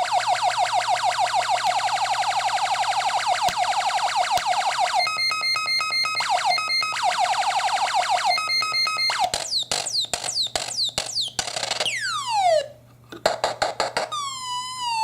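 Homemade electronic sound effects synthesizer, built from Angelis Electronics 8630 and 4820 kits and a Velleman kit, playing through its home-made speaker. It cycles through alarm-like effects: a fast train of repeating chirps for about five seconds, then beeping tones switched on and off, then a run of falling laser-like sweeps ending in one long downward glide. After a short gap, clicks and a wavering tone near the end.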